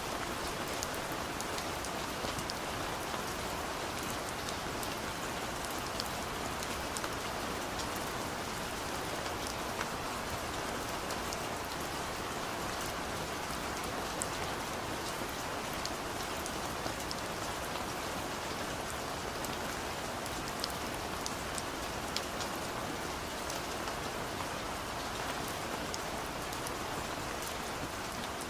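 Steady rain falling on a car's roof and glass, heard from inside the cabin, an even patter with scattered sharper drop ticks.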